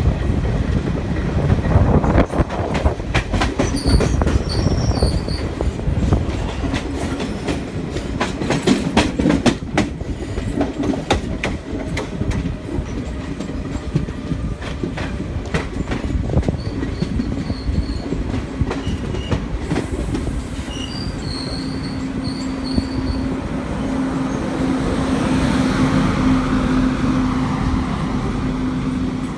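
Passenger train running, heard from on board: wheels rumbling on the rails and clicking over rail joints, with a dense run of clicks in the first half. A steady hum comes in during the second half.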